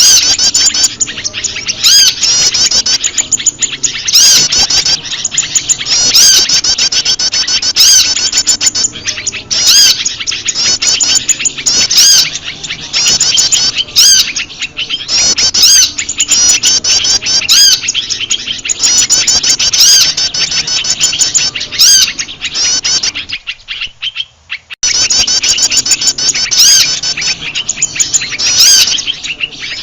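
Bird-lure recording of prenjak lumut calls mixed with a chorus of other small birds: dense, rapid, high-pitched chirping without pause, with a sharp click about every two seconds. The chirping drops out briefly for about a second and a half near the end, then resumes.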